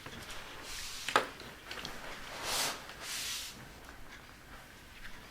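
Quiet room during a pause in conversation: a few soft hissy swells and one small click about a second in.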